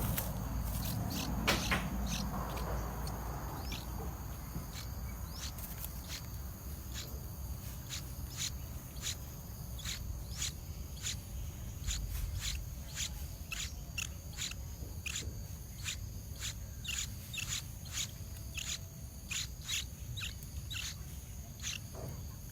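Outdoor insect chorus, a steady high-pitched trilling, with many short sharp chirps that drop in pitch, about two a second.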